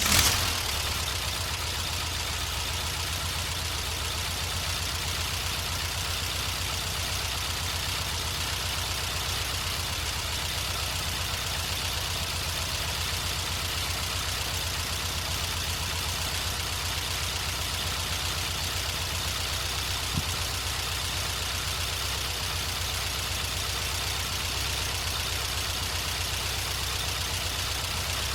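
VW Type 4 2.0L air-cooled flat-four with dual Weber 40 IDF carburettors catching and flaring briefly, then settling into a steady, even idle a little under 900 rpm. A single sharp click about twenty seconds in.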